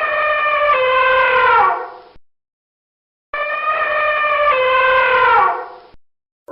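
A long animal call with a clear pitch, held steady, stepping down slightly and then sliding down at the end. The same call is heard twice with a short gap between.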